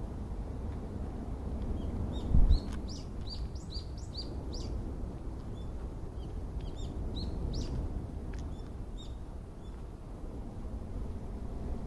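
Small songbirds chirping in quick series of short high notes over the steady low rush of sea waves. A brief low thump about two seconds in.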